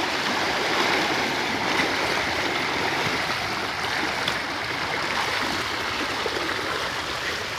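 Steady rush and slosh of floodwater churned up by bicycle tyres riding through a flooded street.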